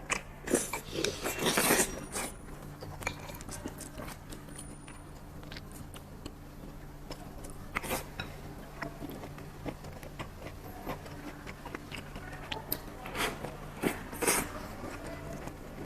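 Hand-handling sounds of kitchen preparation: short rustling and scraping bursts with scattered small clicks, over a steady low hum.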